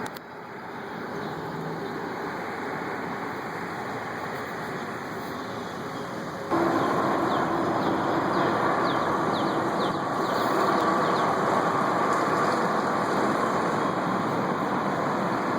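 An engine running steadily under a wash of noise. About six and a half seconds in, it abruptly gets louder and takes on a steady hum.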